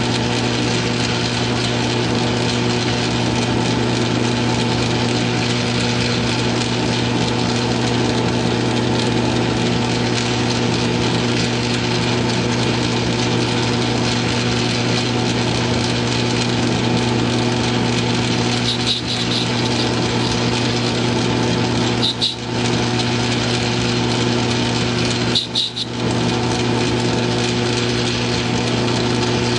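South Bend metal lathe running steadily with a constant motor hum while a light boring cut is taken inside the part. The sound dips briefly three times in the last third.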